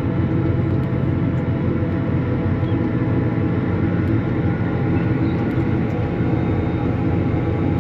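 Farm tractor engine running steadily while the tractor drives along pulling a tanker.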